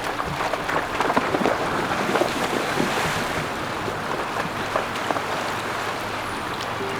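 River water running and splashing, with many small irregular splashes over a steady rush.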